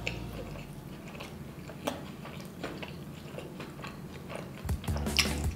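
Close-miked chewing of a mouthful of fried chicken: soft wet mouth clicks and small crunches, growing louder about three-quarters of the way through.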